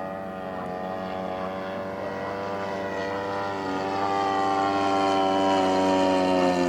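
Zenoah GT80 two-stroke twin-cylinder petrol engine driving the propeller of a giant-scale RC model warplane in flight. It holds a steady note that grows louder as the plane comes closer, and the pitch eases down slightly near the end.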